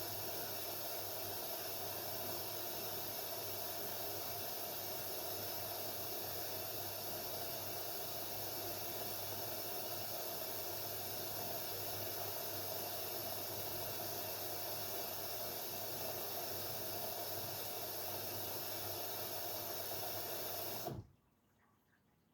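Haier 7.5 kg washing machine filling with water at the start of a delicate wash: a steady hiss of water running in, with a faint hum, that cuts off suddenly near the end.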